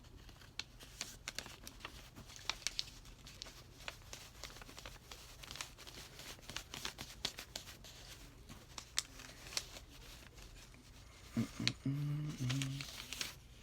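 A sheet of paper being folded and creased by hand: irregular crinkles, rustles and small clicks as the edges are folded to the center crease. A short low hum of a voice comes near the end.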